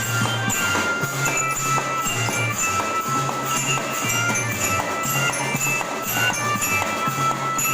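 School band playing music: a bright, bell-like melody with jingling percussion over low bass notes that change every second or so.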